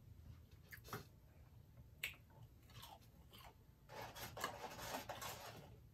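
A person chewing and crunching fried fast food: a few separate crisp crunches, then a denser run of crunching about four seconds in.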